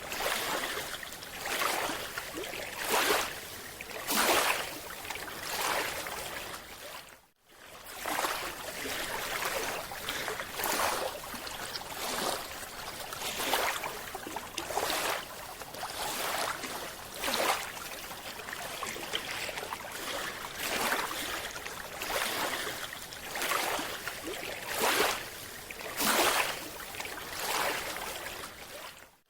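Water sloshing and washing, swelling in repeated surges about once a second, with a brief break about seven seconds in.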